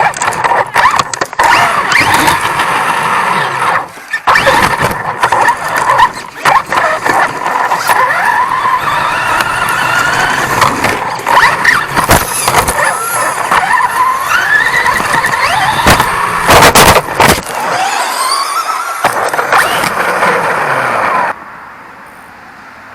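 A 1/10-scale off-road RC truck's motor and gears whining up and down in pitch as it races, heard from a camera on the truck. Its chassis clatters and knocks over the rough ground. About 21 seconds in, the whine and clatter stop suddenly.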